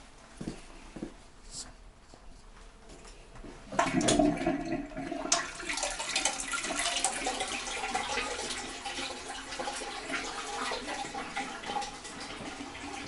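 A toilet flushing: a few faint clicks, then a sudden rush of water about four seconds in that settles into a steady flow as the cistern refills.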